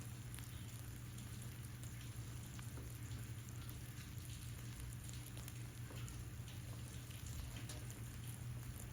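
Light, irregular patter of falling drops ticking on a surface, with a steady low hum underneath.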